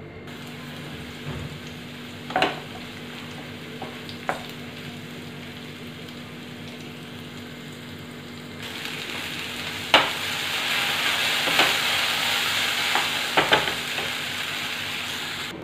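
Onion slices and red chilli sizzling in hot oil in a frying pan. From about nine seconds in, the sizzle gets louder as chopped okra fries and is stirred, with a few sharp knocks of the spatula against the pan.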